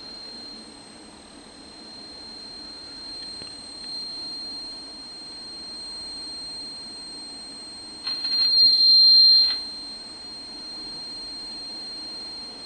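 Sustainiac guitar sustainer system emitting an unwanted steady high-pitched squeal over a background of hiss and hum. About eight seconds in, the squeal swells much louder with a burst of noise for a second and a half, then settles back.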